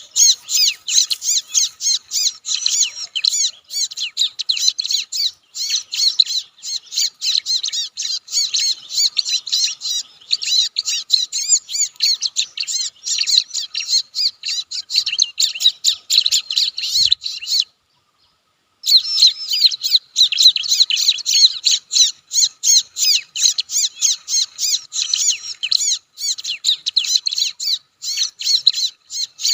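Bar-winged prinia (ciblek) calling, with rapid, continuous chattering notes. About two-thirds of the way through, the sound drops out completely for about a second.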